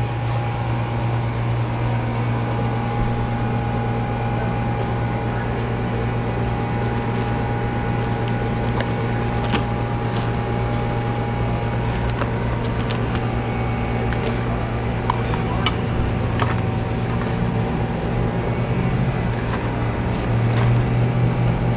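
A steady low mechanical hum with a faint whine above it, and a few light clicks and knocks scattered through.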